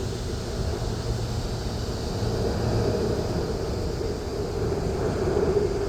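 Jet airliner engines running, a steady rumble with a low hum.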